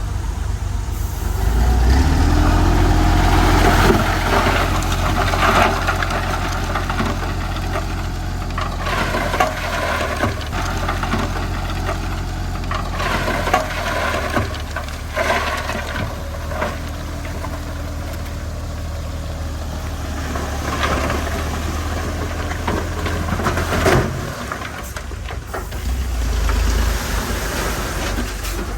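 Komatsu D31P bulldozer's diesel engine running steadily under load, with scattered clanks and scraping noises over the drone.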